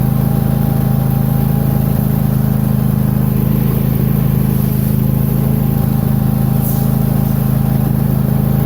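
Lawn tractor engine running at a steady speed, with a brief high hiss about two-thirds of the way through.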